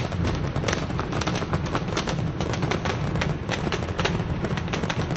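Fireworks display: a rapid, dense barrage of bangs and crackles that runs on without a break.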